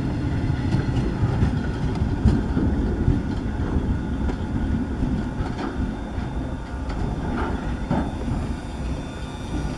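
Freight train's loaded log cars rolling past, steel wheels rumbling and clacking over the rail joints, the sound slowly getting fainter.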